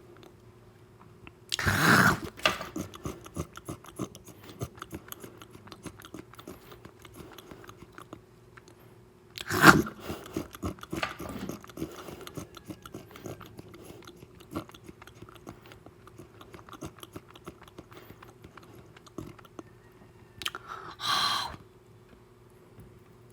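Close-miked ASMR eating sounds: chewing and biting with lots of small clicks, and three louder bursts about two seconds in, about ten seconds in, and near the end.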